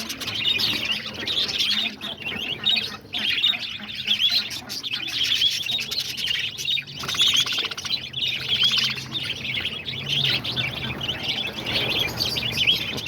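A large flock of budgerigars chattering and chirping all at once, a continuous dense twittering of many birds.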